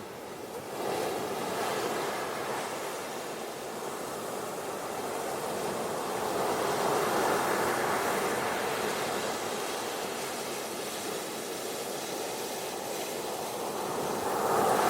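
Ocean surf washing onto a beach, a steady rush that swells and eases in slow surges, loudest about a second in, around seven or eight seconds in, and again at the very end.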